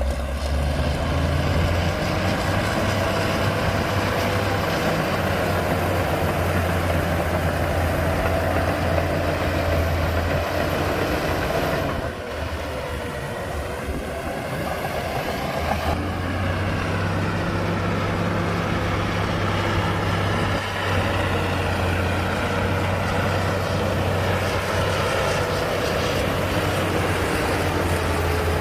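Heavy diesel earthmoving machinery running steadily with a deep engine drone. The drone eases off for a few seconds about halfway through, then picks up again.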